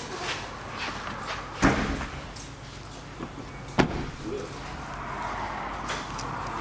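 Two slams about two seconds apart: a car door being shut.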